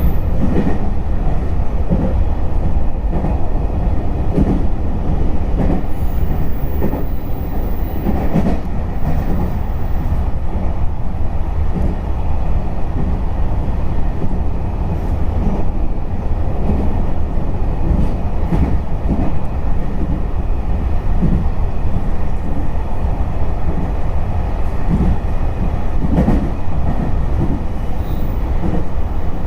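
Electric commuter train running along the line, heard from on board: a steady low rumble of wheels on rail with recurring clacks as the wheels pass over rail joints.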